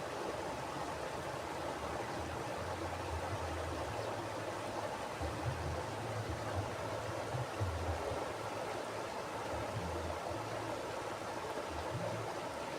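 Mountain river flowing: a steady rush of water with uneven low rumbles underneath.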